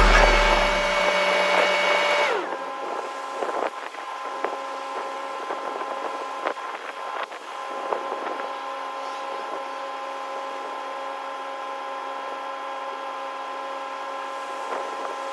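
Skid steer running at steady throttle with a constant whine, and scattered knocks and clanks as it works the ground. Music with a heavy bass plays at the start and cuts off about two seconds in.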